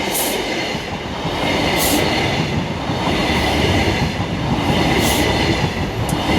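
Midland Pullman Class 43 HST train passing over the level crossing: a steady rumble of wheels on rail with a sharp clack every second or two as the bogies cross the rail joints.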